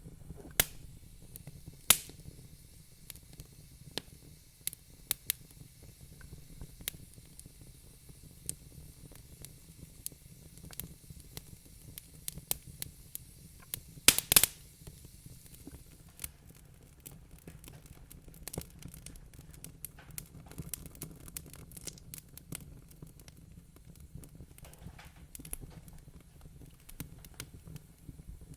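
Wood fire crackling in a fireplace: irregular sharp pops and snaps over a low steady rumble of the flames, with a loud cluster of pops about halfway through.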